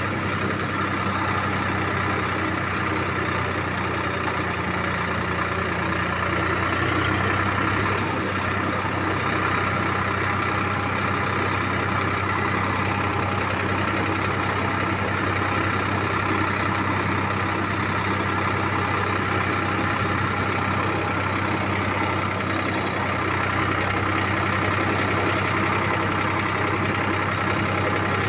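Tractor engine running at a steady speed, an even low drone.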